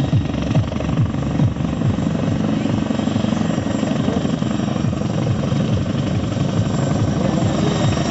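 Boeing CH-47 Chinook tandem-rotor helicopter running close by, its rotor blades beating in a rapid, steady rhythm over a continuous rushing noise.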